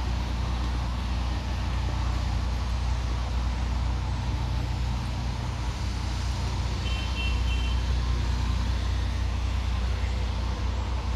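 Steady rumble of road traffic, heaviest in the low end, with a brief high-pitched double tone about seven seconds in.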